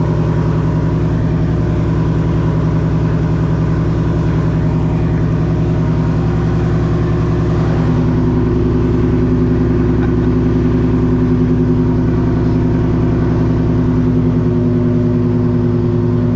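Ford Mustang S550's 5.0-litre V8 idling steadily just after a cold start, its exhaust loud and raw through catless long-tube headers, with a slight rise in idle about halfway through.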